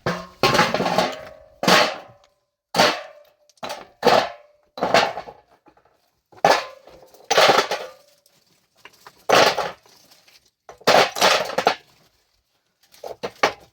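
Stones and metal tools knocking against rock: about a dozen loud, separate strikes and clatters, roughly one a second with uneven gaps, several followed by a short metallic ring.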